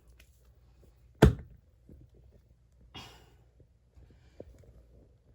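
A single sharp thump, followed about two seconds later by a short breathy rush of noise.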